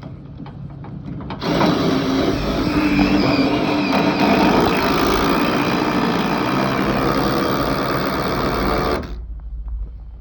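Cordless brushless impact wrench with a 9/16 socket driving a speed ratchet chain binder. It runs loud for about seven and a half seconds, starting and stopping suddenly, as it tensions the tie-down chain.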